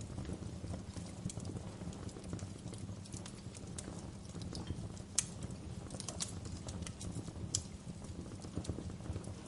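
Wood fire crackling in a fireplace: irregular sharp pops and snaps over a steady low rumble, with the loudest pop about five seconds in.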